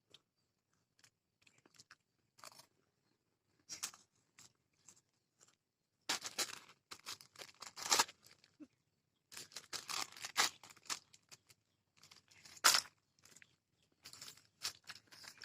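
Crunchy biscuits being bitten and chewed, a few scattered crunches at first, then dense runs of crunching from about six seconds in, with one sharp, loud crunch about two-thirds of the way through.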